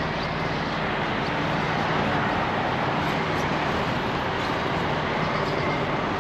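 Steady vehicle noise, an even rushing hum with a low drone underneath that holds level throughout.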